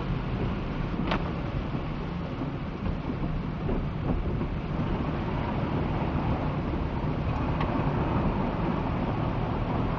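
Heavy rain falling: a steady rushing noise with a low rumble underneath.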